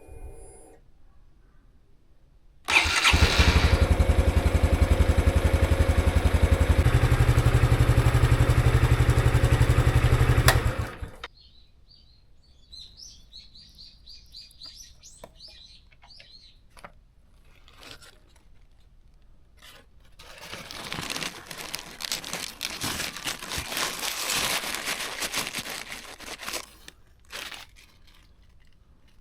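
Honda Super Cub 110's single-cylinder four-stroke engine starting abruptly and running steadily for about eight seconds, its speed stepping up partway through, then shut off. It is being run after a fresh oil change.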